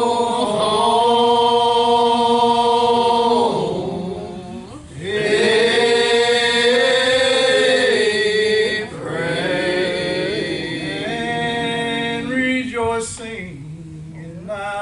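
Voices singing a church song together in long, held phrases, with short breaks about four and nine seconds in. The singing grows quieter near the end.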